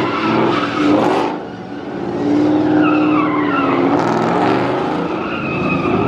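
A car's tires squealing as it spins them with the engine revving hard. The squeal wavers in pitch, drops away briefly about a second and a half in, then builds again.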